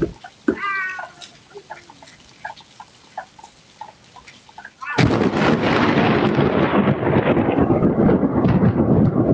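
Thunder from lightning strikes: a sharp crack at the start, then about five seconds in a sudden close thunderclap that goes on as a loud, rough rumble. A brief high-pitched cry sounds just under a second in.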